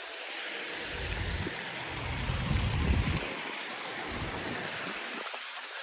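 Wind gusting against the microphone in a snowstorm, low rumbling buffets that swell and drop away over a steady rushing hiss.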